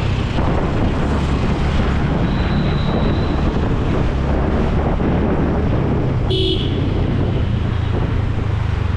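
Wind buffeting the microphone over a motorcycle engine running steadily on the road, with a short horn beep about six seconds in.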